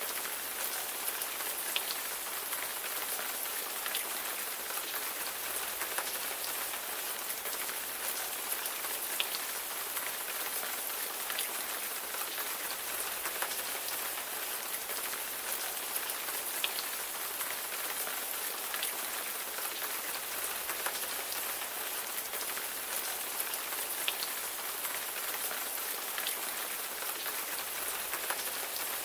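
Steady rain falling, a continuous hiss with the pattering ticks of individual raindrops hitting a surface.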